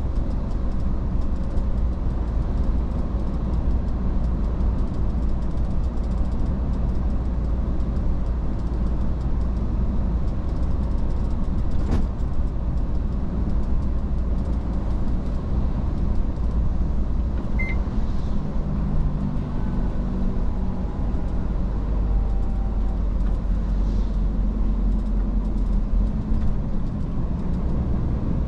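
Iveco S-Way truck driving, a steady low rumble of engine and road noise. A short click comes about twelve seconds in, and a brief high beep a few seconds later.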